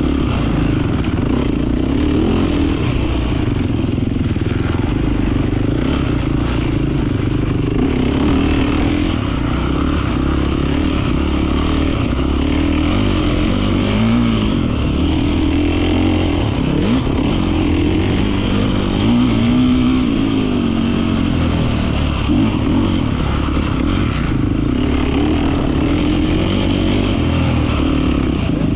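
Beta 450 RX four-stroke single-cylinder motocross bike engine running continuously as it is ridden, the revs rising and falling again and again.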